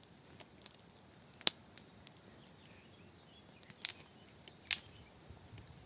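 A few scattered sharp clicks and snaps over a faint steady hiss. The loudest comes about a second and a half in, and two more come a little before the end.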